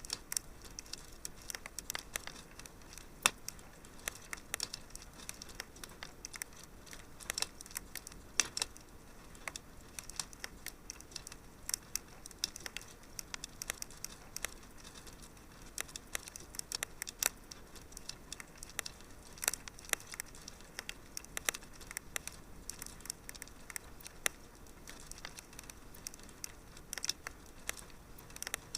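Wood fire in a fireplace crackling: a steady soft hiss with frequent small, irregular pops and snaps, a few sharper ones standing out.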